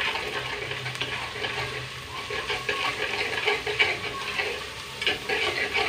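Onions and garlic-ginger paste frying in hot oil in a clay pot, sizzling and crackling, while a metal spoon stirs them.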